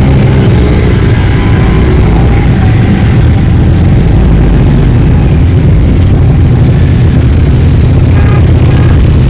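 Loud, steady, unbroken drone of many motorcycle engines as a procession of bikes rides past.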